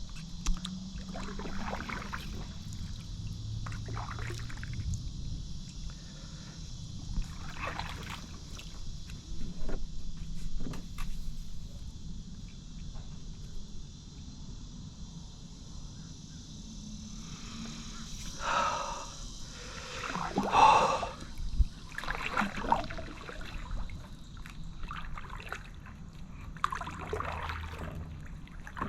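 Kayak paddle strokes: the blades dip and splash, with water trickling off them at irregular intervals, and a few louder splashes about two-thirds of the way through. A steady low rumble lies underneath.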